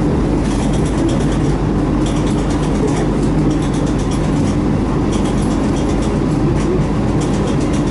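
Local train on the Yamagata Line running at steady speed, heard from inside the carriage: a continuous rumble of wheels on rail with a constant hum over it.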